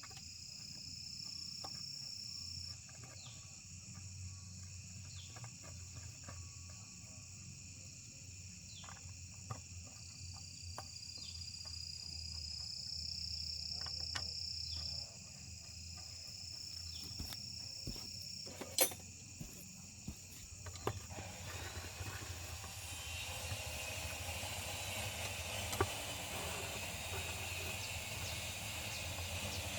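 Insects chirping and buzzing steadily, with short repeated chirps and a shrill trill that starts and stops. Scattered light clicks and one sharp knock about 19 seconds in, over a low hum; a broad rushing noise comes up about two-thirds of the way through.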